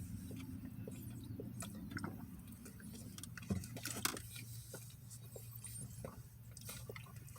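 Quiet chewing and eating of fast food, with scattered soft clicks and crackles, over a steady low hum.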